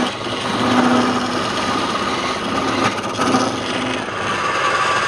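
Wood lathe running steadily while a turning tool cuts the spinning wood: a continuous mechanical whir with a scraping, grinding texture.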